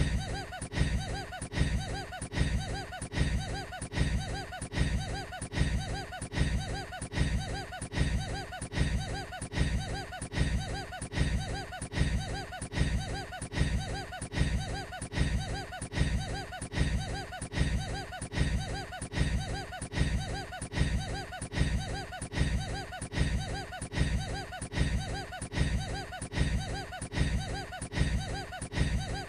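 A man's short, odd-sounding laugh looped over and over, repeating roughly once a second.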